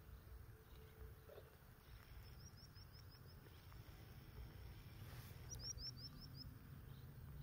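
A small bird calling faintly: two quick runs of five or six short, high, rising chirps, the first about two seconds in and the second about five and a half seconds in, over a low steady rumble.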